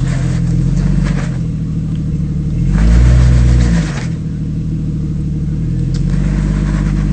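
Off-road 4x4's engine running at low revs, revved up hard for about a second around three seconds in, then back to a steady low run.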